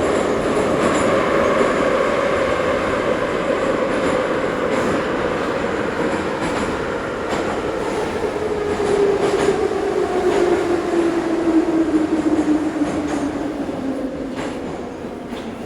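Ezh3 metro train running through the tunnel, with rumble and occasional rail-joint clicks. Over the second half the motor whine falls steadily in pitch and the noise eases as the train slows.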